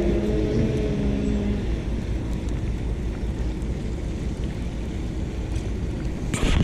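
Strong wind buffeting the microphone, a steady low rumble. A low hum of several steady tones fades out about a second and a half in, and a brief sharp noise comes near the end.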